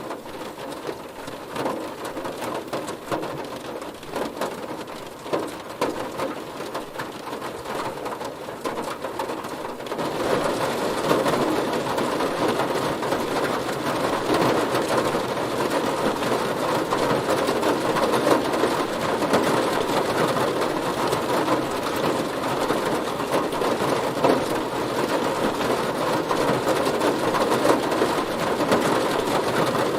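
Heavy rain falling on a car, a dense patter of individual drops striking the body. It becomes louder and denser about ten seconds in, then holds steady.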